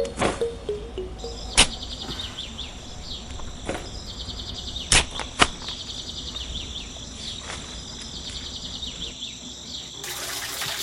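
High, fast chirring trill like crickets or other insects, with a few sharp knocks, two of them close together about five seconds in. Near the end a rushing hiss starts.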